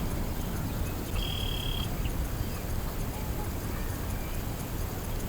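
Steady low outdoor rumble with a bird's single high, level whistled note a little over a second in, lasting under a second.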